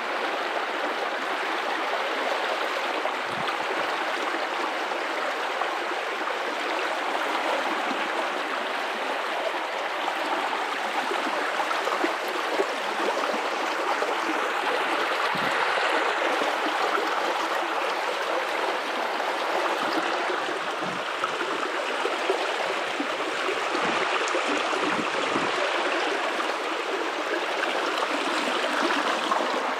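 River water running over rocks in a steady rushing flow, with occasional deeper gurgles.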